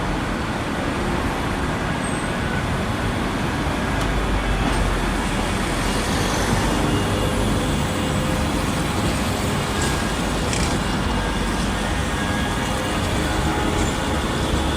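Steady rumble of a tram running amid street traffic, with a low rumble swelling a little about four to eight seconds in.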